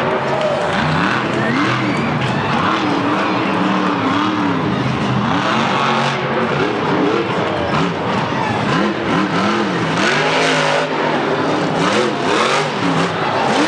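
Monster truck supercharged V8 engines revving hard in repeated quick swells, pitch rising and falling over and over, loud and continuous.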